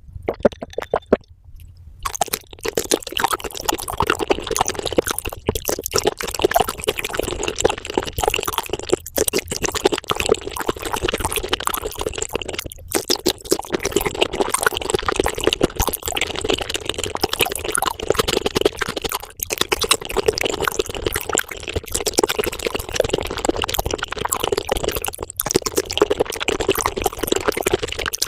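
Wet, squelchy chewing and slurping of raw shrimp close to the microphone, sped up so the small wet clicks run together into a rapid crackle. The sound breaks off abruptly several times, and there is a quieter gap near the start.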